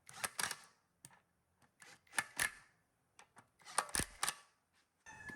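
Sharp clicks and knocks of hand tools and small metal parts being handled, coming in short clusters with brief silent gaps. The loudest knock comes about four seconds in.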